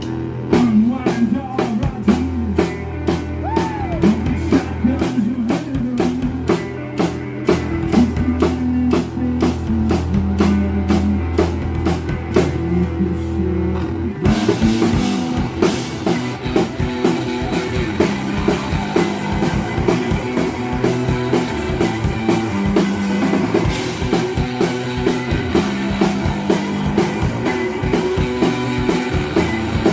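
Rock band playing live, drums and guitar: a steady drumbeat over a sustained low bass note, with the full band and cymbals coming in about halfway through.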